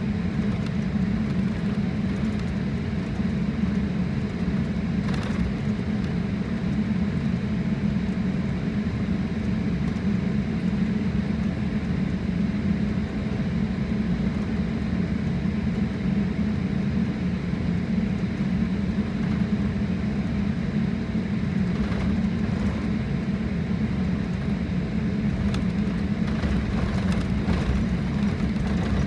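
Steady low rumble of a jet airliner's engines and airflow heard inside the passenger cabin, holding level without rising or falling.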